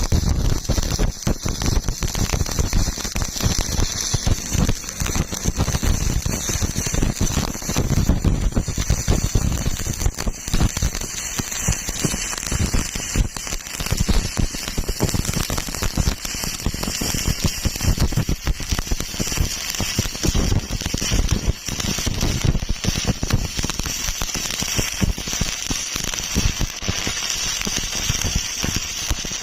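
Electric arc welding a fillet weld: the arc crackles and sizzles steadily, then cuts off suddenly at the end as the arc is broken.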